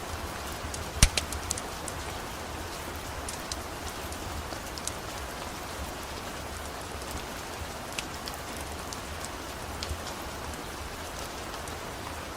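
Steady rain mixed with the scattered sharp crackles and pops of a wood-burning fire; the loudest pop comes about a second in.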